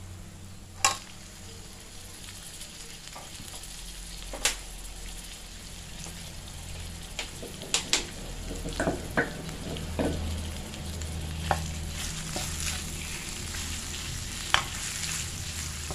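Minced pork frying in a wok of hot oil and chili paste, sizzling steadily and growing louder as the meat is stirred in. Sharp metal clinks of the spatula and bowl against the wok land here and there, the strongest about a second in and near the end.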